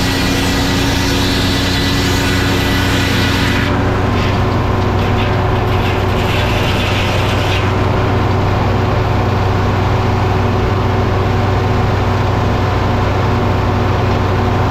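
Sawmill machinery running steadily: a constant engine drone with a low hum, and a higher hiss that is there for the first few seconds and comes back briefly near the middle.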